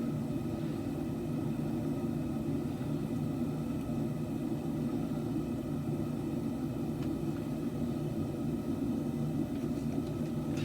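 A forge running with a steady low rumble while the blade heats.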